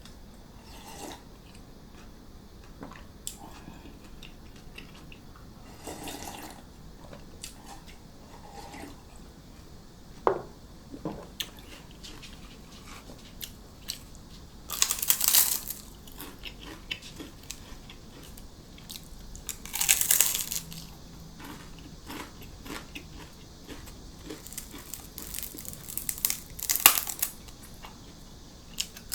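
Close-up eating sounds: a person chewing, with loud crunchy bites about halfway in, again a few seconds later, and a cluster near the end.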